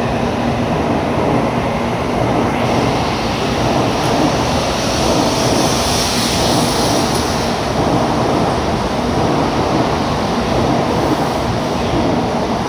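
N700A-series Shinkansen accelerating out of the station, its cars rolling past at speed with a steady rush of wheel-on-rail and air noise.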